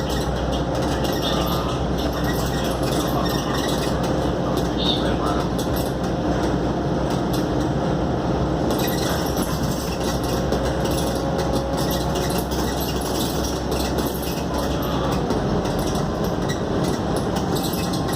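Steady engine, transmission and road noise heard from inside a Scania K280UD double-decker bus under way, with a faint steady whine and light rattles from the bodywork.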